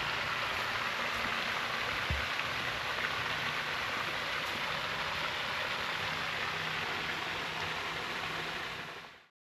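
Steady rushing hiss, like rain or running water, that fades out to silence near the end.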